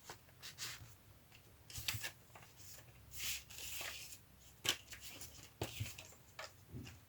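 Paper and card being handled and slid into an envelope pocket: soft, scattered rustles with a few light taps and clicks.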